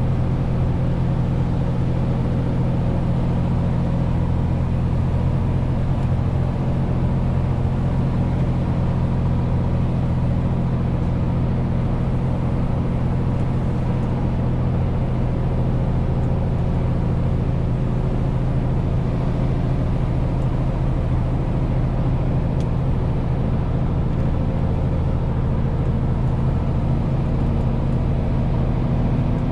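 Renault T520 truck's straight-six diesel running steadily while driving with a 40-tonne load, over tyre and road noise. The engine note rises slightly near the end.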